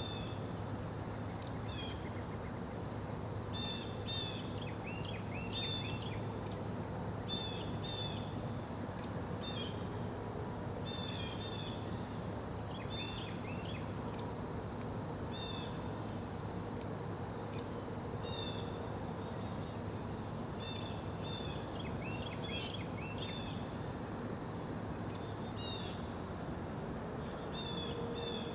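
Insects droning at a steady high pitch, with small birds giving short repeated chirps in clusters throughout, over a low steady background hum.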